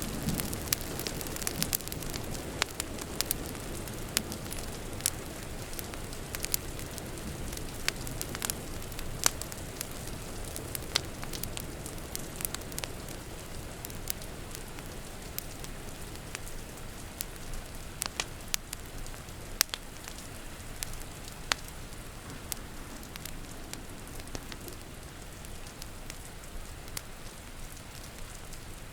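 Wood fire crackling with scattered sharp pops over the steady patter of rain; the pops come less often toward the end.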